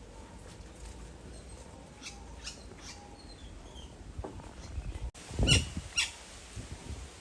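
Woodpeckers giving short, sharp call notes: a few scattered notes, then two louder ones near the end. A low thump comes with the first of the louder notes.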